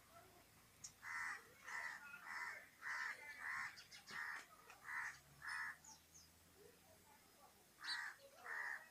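A bird calling: a run of about eight short calls, roughly one every 0.6 seconds, then a pause and two more near the end.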